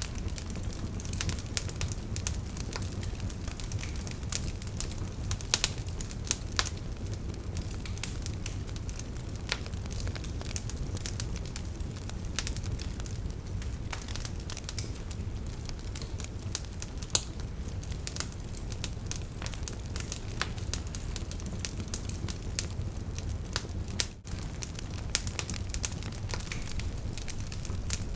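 Wood campfire burning and crackling: irregular sharp pops and snaps over a steady low rumble.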